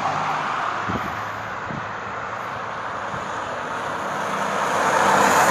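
Car tyre and road noise on a paved road, growing louder toward the end as the vehicle comes closer.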